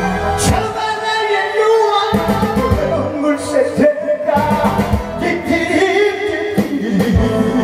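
A voice singing over backing music.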